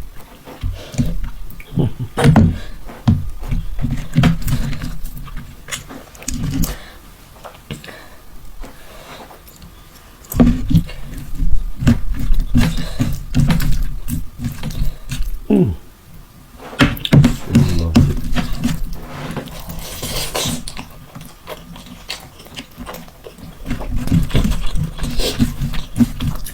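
Close-miked eating sounds of a man chewing and smacking mouthfuls of mutton mandi, a rapid irregular run of wet clicks and smacks, with a quieter lull part way through.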